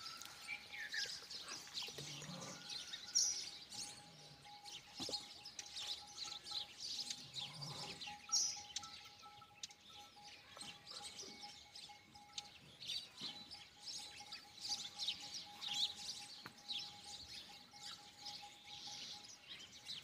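Small birds chirping and tweeting, many short high calls scattered throughout, over a faint steady tone.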